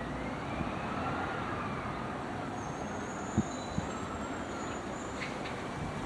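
Steady motor-vehicle traffic noise, with a faint wavering tone that rises and falls through the first few seconds and two short knocks about three and a half seconds in.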